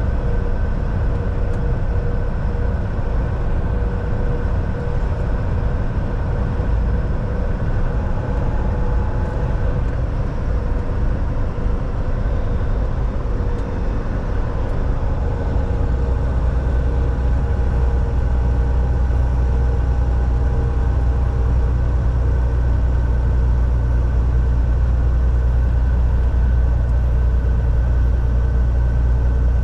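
Volvo VNL 760 semi truck driving on the highway, heard from inside the cab: a steady engine drone and road noise. About halfway through, the low engine hum becomes stronger and more even.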